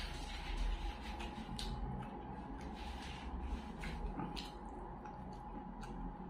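Close-miked eating sounds: wet chewing and mouth smacks as fried fish and rice are eaten by hand, with fingers squishing through the rice. Scattered short clicks run over a faint steady hum.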